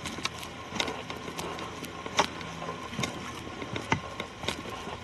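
Footsteps crunching on leaf litter and twigs along a forest trail: irregular sharp crunches about once a second over a faint steady background.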